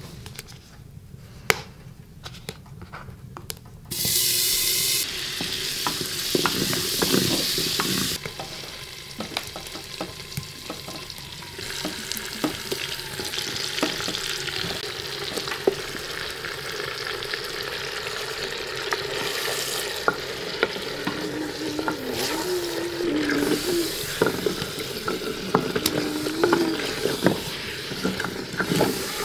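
Meat frying in a stone cooking pot: the sizzling starts suddenly about four seconds in, is loudest for a few seconds, then settles to a steady sizzle. A wooden spoon stirs and clicks against the pot throughout.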